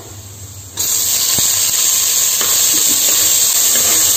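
Sliced tomatoes dropped into hot oil and ghee with frying onions in a pressure cooker, setting off a loud sizzle a little under a second in that carries on steadily while they are stirred.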